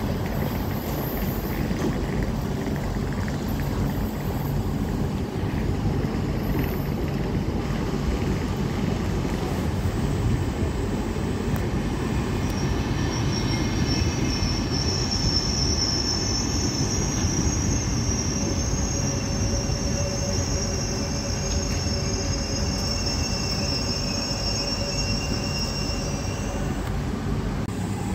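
Electric passenger train running along the platform with a steady rolling rumble. About halfway in, a high, thin wheel squeal sets in and holds for most of the rest.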